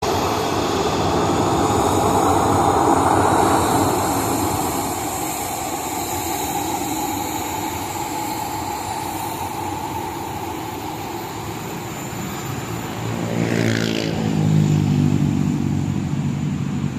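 Boeing 737 jet engines running at taxi power: a steady rumble with a high whine, loudest a few seconds in. About thirteen seconds in, a second, lower pitched engine note comes in and swells.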